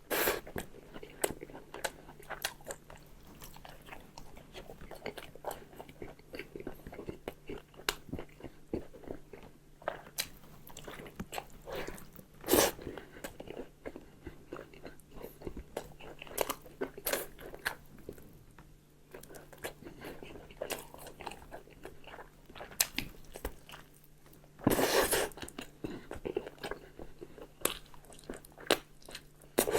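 A person eating close to the microphone: irregular bites, chewing and small crunchy clicks. Two louder sounds stand out, a sharp one a little before halfway and a longer one near the end, over a faint steady low hum.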